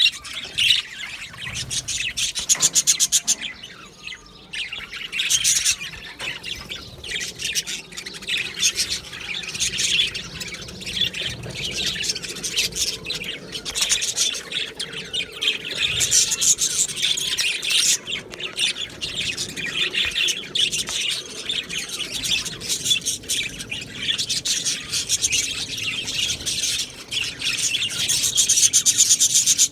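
A flock of budgerigars chattering and chirping without pause, many warbling calls overlapping, with a brief lull about four seconds in and louder calling near the end.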